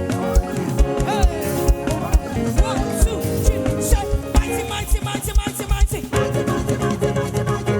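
Live worship band music with held keyboard-like chords over a steady kick-drum beat of a little more than two beats a second.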